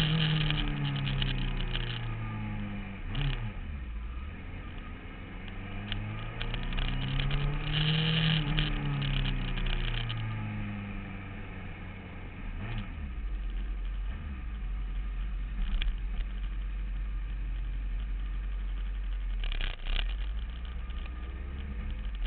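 Motorcycle engine heard from on board, its revs falling, rising again to a peak about 8 seconds in, then falling away as the bike rolls slowly. From about 13 seconds it settles to a steady low idle, with a couple of short knocks.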